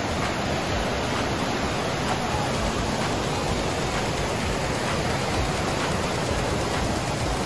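Steady rushing of falling water, an even roar without breaks.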